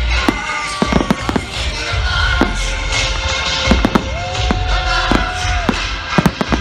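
Fireworks bursting in quick succession, a string of sharp bangs and crackles, over pop music with a steady bass beat.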